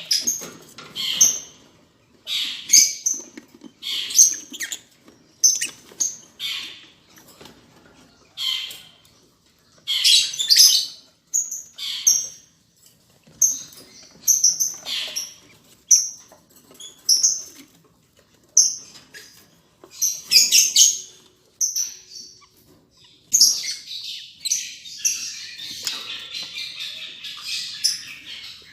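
Lovebirds calling with short, high-pitched chirps, one after another about every second. The calls thicken into dense, continuous chattering near the end.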